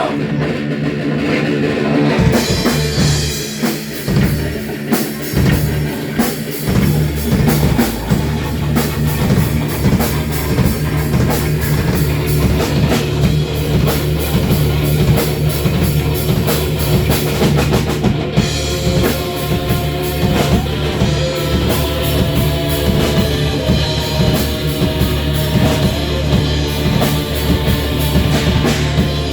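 Instrumental heavy rock music: an electric guitar riff over a drum kit. The full drum beat comes in about two seconds in.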